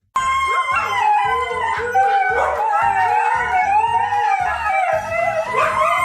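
A dog howling in long, wavering notes along with music that has a steady beat.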